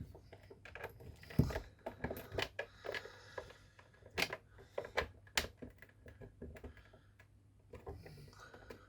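Irregular sharp clicks and taps of a screwdriver tool against the plastic casing of a Nespresso Citiz coffee machine as it is fitted to and turns the oval-head security screws. The sharpest taps come about a second and a half, four and five and a half seconds in.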